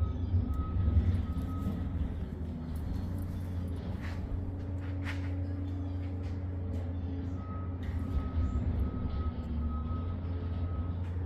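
Ford 429 Super Cobra Jet big-block V8 running steadily with a deep, even drone. A faint high beep repeats about twice a second for the first couple of seconds and again over the last few seconds.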